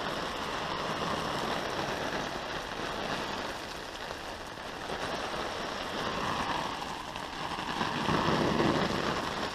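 Water spray pattering steadily on a pop-up tent's fabric, like heavy rain, getting a little louder near the end.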